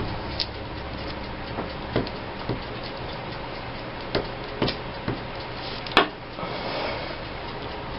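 Paper and craft materials handled on a tabletop: a few light, scattered taps and clicks, the sharpest about six seconds in, followed by a brief soft rustle.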